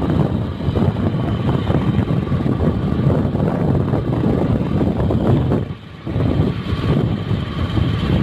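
Wind buffeting the microphone on a moving motorcycle, with the engine running steadily underneath. The sound dips sharply for a moment just before six seconds in.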